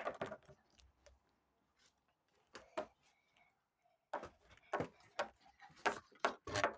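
Small plastic toy figures handled and set down, making sharp clicks and taps: two near the middle, then a quick run of about ten in the last three seconds.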